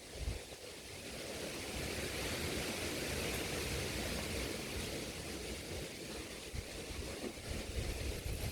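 Heavy rain falling, a steady hiss that swells about a second in and eases slightly towards the end, with wind buffeting the microphone.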